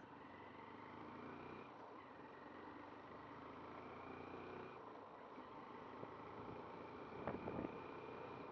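Faint road traffic heard from a motorcycle dashcam, with a thin steady high whine for the first few seconds and a brief louder burst of noise a little past seven seconds in.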